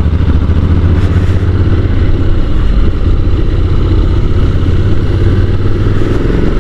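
Honda NC750's parallel-twin engine pulling steadily uphill in a low gear, a deep chugging drone with wind rushing over the microphone.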